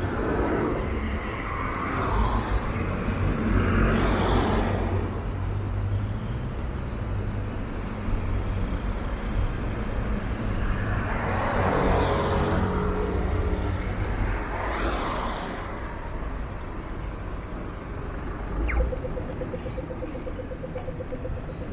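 Road traffic: several vehicles pass by one after another, each swelling and fading, over a steady low rumble. Near the end a brief rising sound gives way to a steady buzzing hum.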